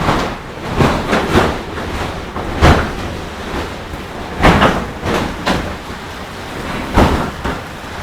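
Strong wind gusting across the microphone: a steady rumble with sharp gusts about one, three, four and a half, five and a half and seven seconds in.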